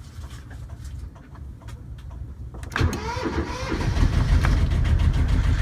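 Sailboat's inboard engine cranked by its starter nearly three seconds in, catching within about a second and settling into a steady run: it starts readily on its batteries after three weeks of sitting idle.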